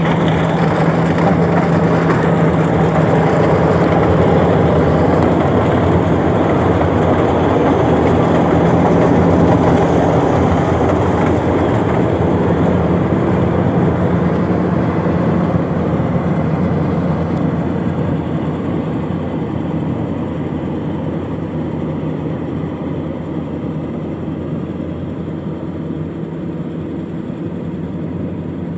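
A rice harvester running: a steady, loud machine noise with a constant low hum. It gradually gets quieter over the second half.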